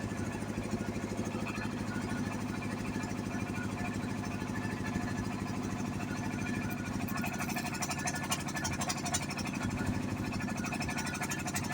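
A small engine running steadily at a constant speed, with a few light clicks in the second half.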